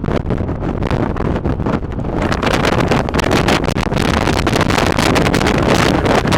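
Wind buffeting the microphone on a speedboat under way, over the steady run of the boat's engine and rushing water. The noise is loud and continuous, rising and falling in gusts.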